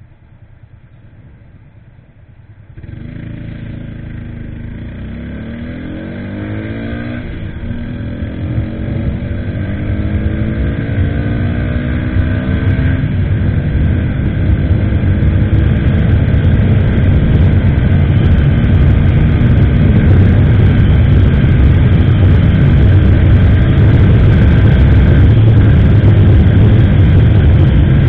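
A motorcycle engine starts up abruptly about three seconds in and accelerates away, its pitch rising, dropping at a gear change and rising again. The engine then merges into loud wind rushing over the action camera's microphone, which grows as speed builds.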